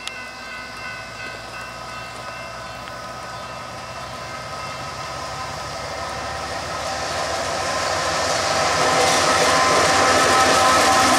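Diesel freight locomotive hauling a loaded autorack train, approaching and passing close by; the rumble of the engine and wheels grows steadily louder and stays loud over the last couple of seconds. The tail of a horn blast dies away in the first few seconds.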